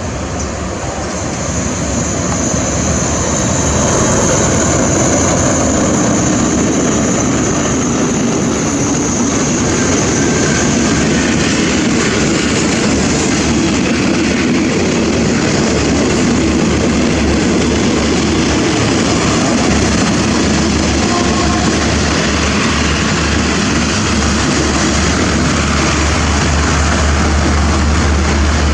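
Thai diesel train running close by: a loud, steady rumble of engine and wheels on the rails that builds over the first few seconds and then holds.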